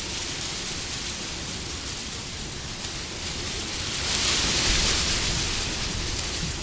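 Wind blowing steadily, with a low rumble, swelling into a stronger gust about four seconds in and easing off again.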